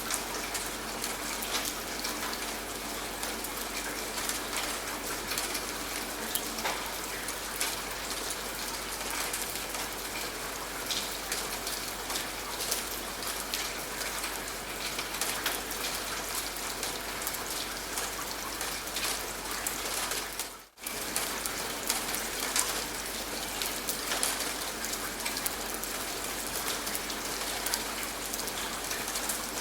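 Steady rain falling on a surface, a dense hiss dotted with many small drop ticks. About two-thirds of the way through it dips out to near silence for a split second, then comes straight back.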